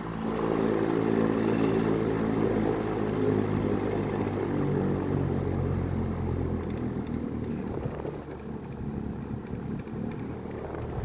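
Old Ventisilva VPL 65 cm wall fan's motor and blades running, with a hum that falls in pitch and fades out after about seven seconds as the fan slows, leaving a softer rush of air.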